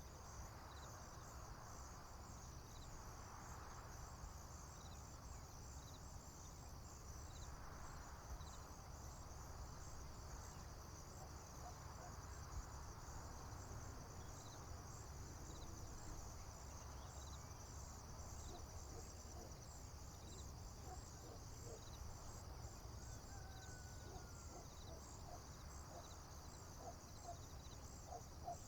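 Faint, steady chorus of crickets and other insects, a high pulsing chirring that never stops, over a low outdoor rumble. A few faint short calls, likely birds, come in the second half.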